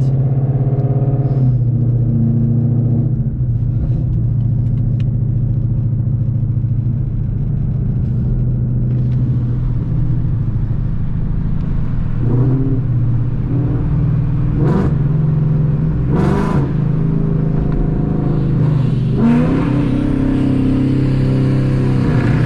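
Car engine running steadily at low revs, with a few short rises in pitch about twelve to sixteen seconds in and again near the end.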